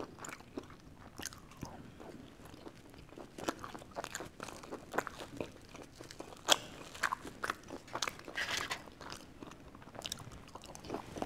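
Close-miked chewing and crunching of thin pizza crust, with many short sharp crunches scattered among the chewing.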